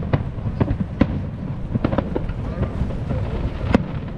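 Aerial fireworks shells bursting: about half a dozen booms at uneven spacing over a low rumble, the loudest near the end.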